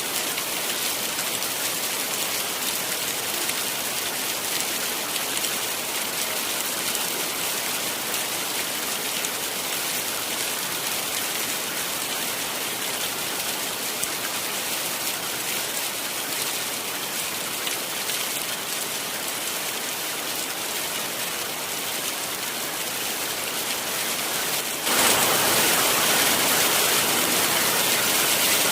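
Heavy rain falling steadily, a dense even hiss of drops. About 25 seconds in it abruptly turns louder and brighter and stays so.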